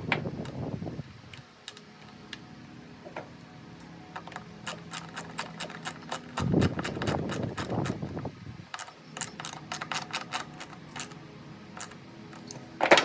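Ratchet wrench clicking in two runs of quick, even clicks, about five a second, while the ignition coil mounting screws on a Stihl BR340 leaf blower are turned. A louder rattle of handling comes between the runs.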